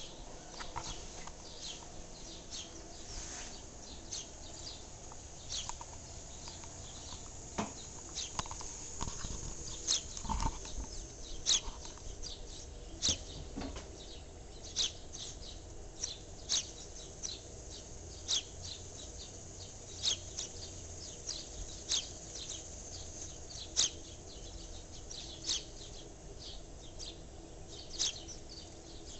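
Small birds chirping: short, sharp high-pitched chirps repeated every second or two, over a faint steady background hum.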